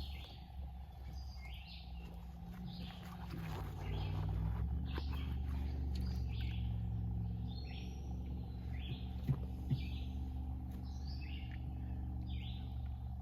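Birds chirping in short repeated calls, about one or two a second, over a steady low hum. Two sharp clicks come close together about nine and a half seconds in.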